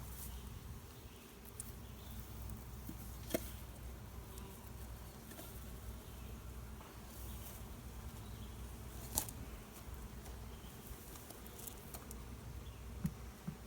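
Honeybees buzzing around an open hive, a steady low hum, with a few sharp clicks: one about three seconds in, a louder one about nine seconds in, and two small ones near the end.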